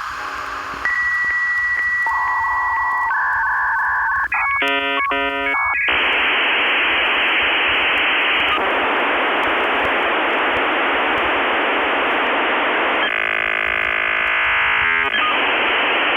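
Dial-up modem connecting over a phone line: a steady tone, a quick burst of touch-tone dialling about four seconds in, then a long hiss of handshake noise with a stretch of rapidly shifting tones near the end.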